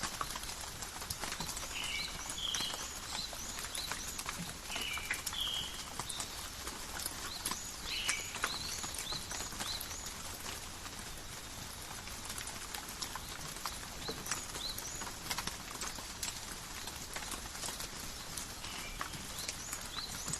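Calm forest rain: a steady hiss of rainfall with many irregular drops ticking and dripping. A bird gives short chirps a few times in the first half.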